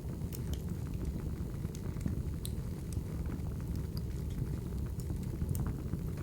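Crackling wood fire: irregular sharp pops and snaps over a steady low rumble of burning logs.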